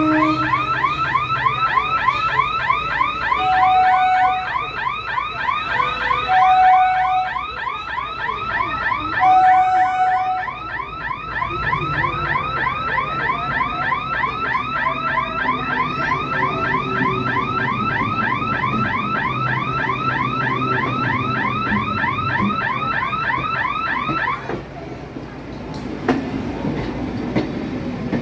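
A rapidly repeating rising electronic chirp, like an alarm, that cuts off suddenly near the end, with three short beeps in the first ten seconds. Under it an EMU local train passes with a low rumble that builds from about halfway through.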